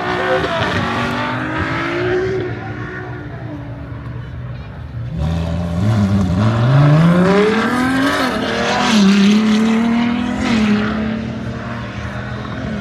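High-performance car engine running loud and accelerating: about five seconds in it comes in sharply, its pitch climbing steeply through the revs, then it settles to a steadier held note.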